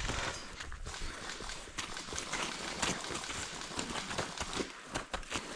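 Footsteps of a person moving on foot, an uneven run of knocks and rustles with no steady rhythm.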